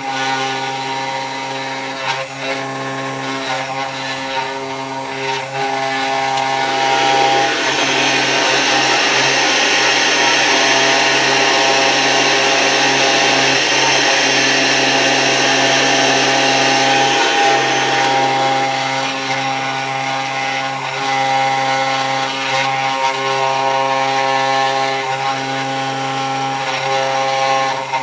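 CNC 3018 Pro router's spindle running with a steady whine while its bit cuts into a wooden cheeseboard. From about six seconds in to about eighteen seconds a louder hiss of cutting joins the whine, then drops back.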